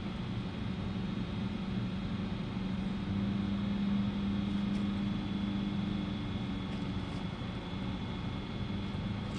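A distant engine running steadily, its low hum growing louder around the middle and easing off again.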